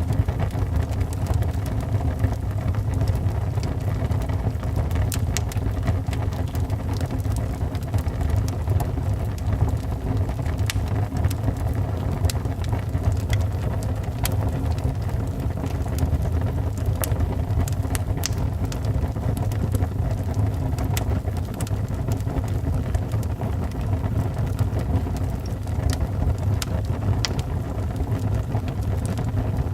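Wood fire burning in a fireplace, a steady low rumble of the flames with frequent sharp crackles and pops scattered throughout.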